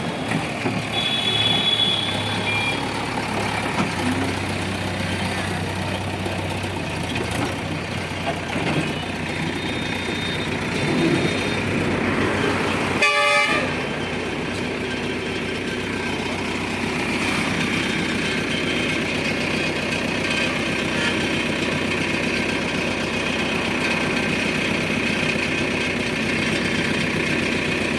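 Diesel engines of heavy vehicles running steadily. A short horn blast sounds about halfway through.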